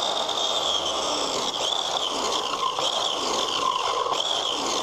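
Compound miter saw running and cutting a 45-degree miter through pine board: a steady high whine, its pitch dipping briefly now and then as the blade bites into the wood.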